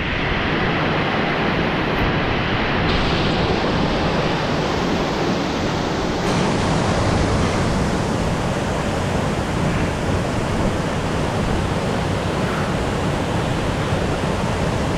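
Waterfall pouring into a plunge pool close by, a loud, steady rush of falling water.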